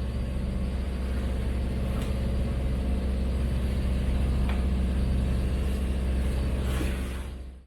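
Sailboat's inboard engine running steadily under way, a low, even drone with a few faint clicks from handling gear; the sound fades out sharply near the end.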